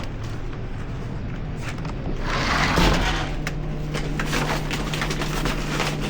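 Street traffic on a slushy road: a car hisses past about two seconds in, followed by a steady low hum, with a few light clicks and knocks.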